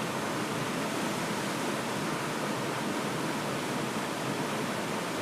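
Steady, even rush of water, with no single drops or splashes standing out.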